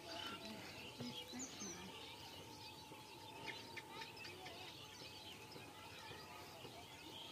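Faint outdoor ambience with scattered small birds chirping and twittering.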